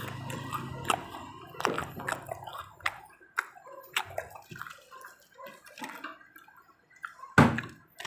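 Close-up wet chewing and mouth smacking, with many small sticky clicks, as a fried pizza roll is eaten. A louder sharp smack or knock comes about seven seconds in.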